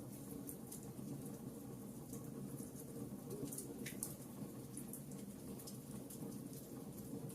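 Wood fire in a fireplace crackling, with small irregular pops and snaps scattered over a steady low rustle of burning.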